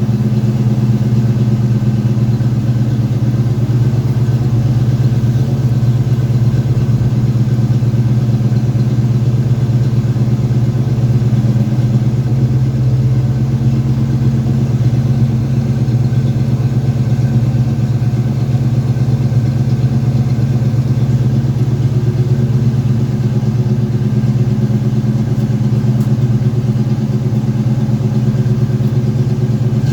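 1987 Ford Mustang LX's 5.0 litre V8 idling steadily after a cold start.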